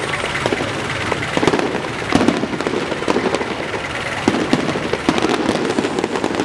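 Fireworks going off in a rapid, irregular barrage of bangs and crackles.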